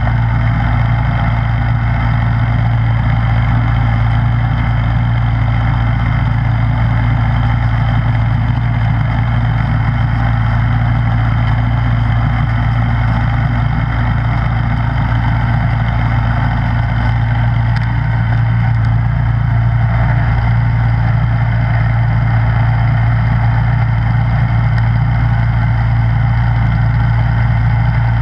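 Snowblower engine running steadily at a constant speed, a loud even hum that never changes in pitch.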